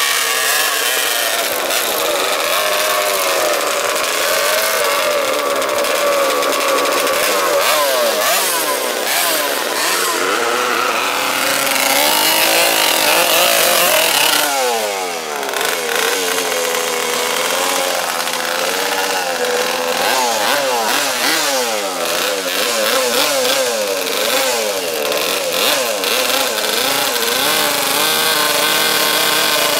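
Drag-racing motorcycle engines revving hard, their pitch climbing and dropping again and again through gear changes as the bikes run, with several engines overlapping at once.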